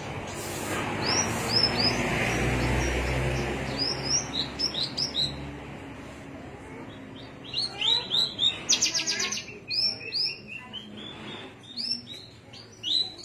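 Small songbird singing in a string of short, sharp hooked chirps, with a quick rattling trill a little after the middle. A rushing noise swells and fades under the first few seconds.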